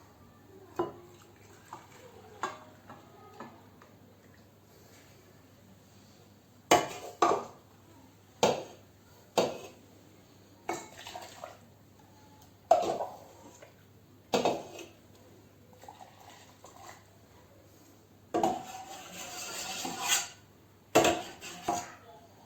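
Dishes and utensils clinking and knocking: a dozen or so separate sharp clatters, most of them from about seven seconds in, with a longer rattling stretch near the end.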